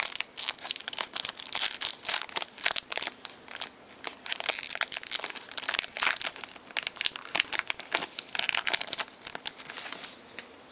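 Plastic or foil trading-card packaging being torn open and crinkled by hand, a dense run of irregular crackles and snaps that dies away about ten seconds in.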